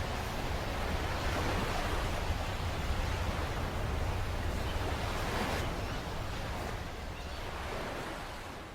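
Steady rushing noise of ocean surf, fading out near the end.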